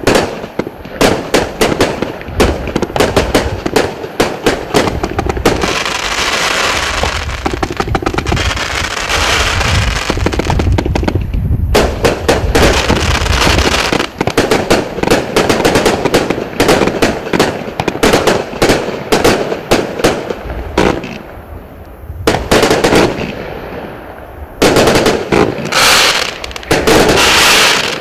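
0.8-inch consumer firework cake (158 shots) firing rapid volleys: a steady stream of launch thumps and shell bursts. It thins out for a few seconds, then ends near the close in a loud, dense run of shots, the cake's finale.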